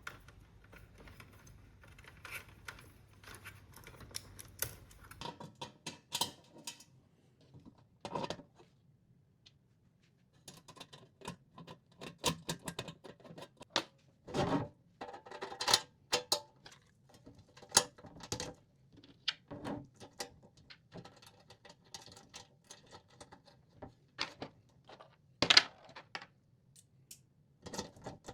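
Irregular clicks, taps and small knocks of tools and small parts being handled during electronics assembly, with a few sharper knocks among them, while a PD fast-charging module is fitted into a power-station case.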